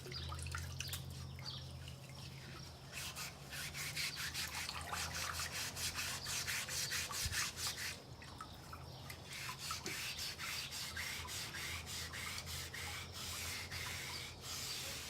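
A brown Scotch-Brite pad scrubbing the rusted surface of an old milling table in quick back-and-forth strokes, about four or five a second, with two short pauses. It is rubbing off rust and crud loosened by reverse electrolysis.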